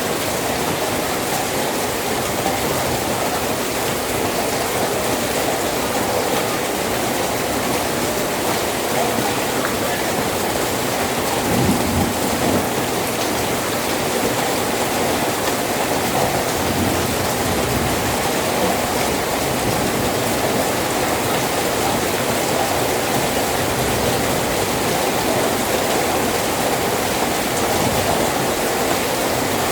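Steady rain falling, an even hiss of drops striking surfaces, with a brief low rumble about twelve seconds in.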